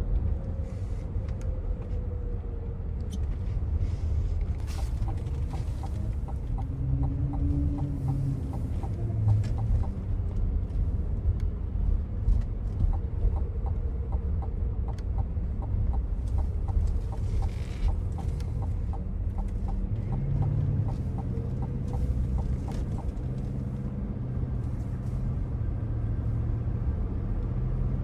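Cabin noise of a 2024 Cadillac Escalade ESV on the move: steady low road rumble with the 6.2-litre V8's hum rising and falling. A soft, regular ticking runs for several seconds in the middle.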